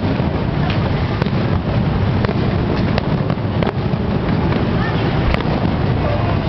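Fireworks barrage at a display's finale: a dense, continuous rumble of bursts with scattered sharp crackles.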